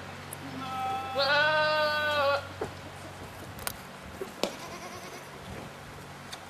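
A goat bleats once, one long steady call about a second and a half long, over a low steady hum. A couple of short clicks follow.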